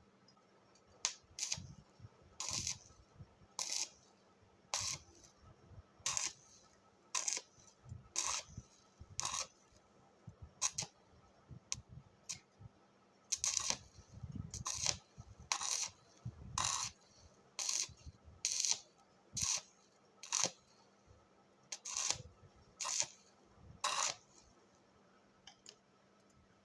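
A series of about twenty short, sharp taps, roughly one a second, with a brief pause about halfway through.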